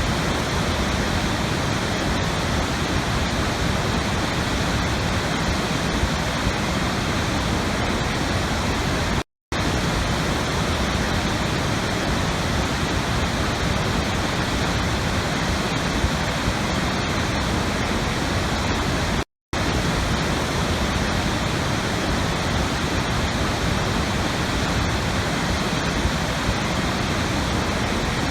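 Steady rushing water, an even full hiss with no distinct events. It cuts out to silence for a split second twice, about ten seconds apart, as if a looped recording restarts.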